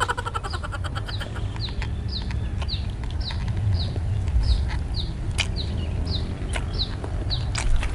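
A bird peeping over and over: short, high, falling calls, about two a second. Scattered clicks and a steady low rumble sit underneath.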